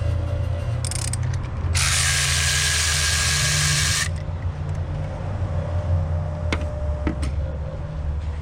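A loud steady hiss lasting about two seconds over a continuous low hum, with a brief hiss just before it and a couple of sharp clicks near the end.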